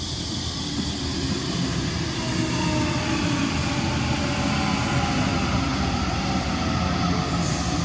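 Sydney Trains Waratah double-deck electric train running through the platform, its traction motors whining with slowly shifting tones over the rumble of wheels on rail.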